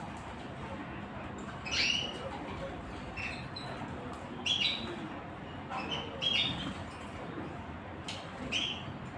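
Small birds giving short chirps, about six in all at irregular intervals of roughly a second, over a steady low background hum.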